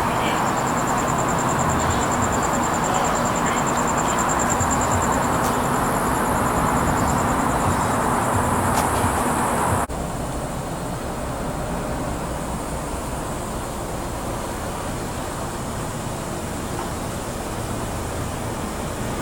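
Steady outdoor background noise with a high, thin, rapidly pulsing tone over it. About ten seconds in, the sound changes abruptly to a slightly quieter steady noise and the high tone is gone.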